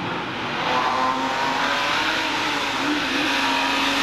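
Rally car engine running at high, fairly steady revs, growing louder over the first second as it approaches, over a haze of tyre and road noise.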